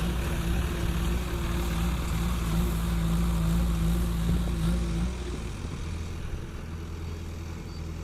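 Heavy diesel machine engine running steadily. About five seconds in, its tone stops and the sound drops quieter.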